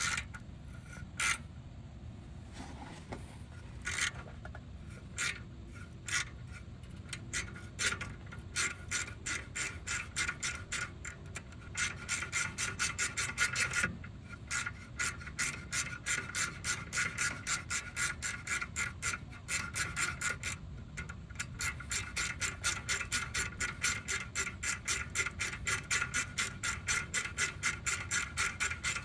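Ratchet clicking as a thread tap is turned into a drilled-out stripped bolt hole, cutting new threads for a coil thread-repair insert. There are scattered single clicks at first, then steady fast runs of several clicks a second.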